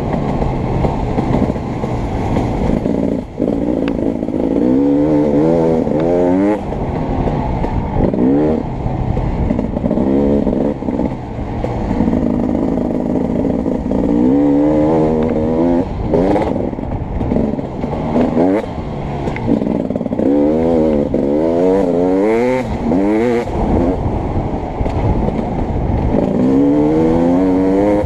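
Beta 300RX two-stroke dirt bike engine under hard riding. It revs up in repeated bursts of climbing pitch, then drops back between them, as the throttle is opened and rolled off around the track.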